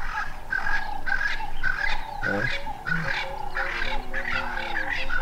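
Birds giving a steady run of short, repeated honking calls, about three a second, with other birds calling more faintly behind.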